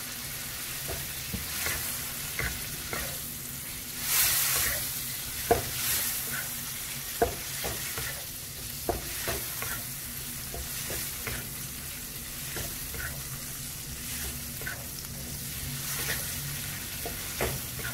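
Shrimp, clams and scallops sizzling in a wok with margarine and sweet soy sauce while a wooden spatula stirs them, with scattered knocks and scrapes of the spatula against the pan. The sizzle swells briefly about four seconds in.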